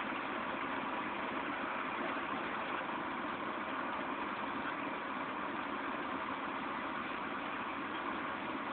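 Steady rain falling during a thunderstorm: an even, unbroken hiss with no thunder claps.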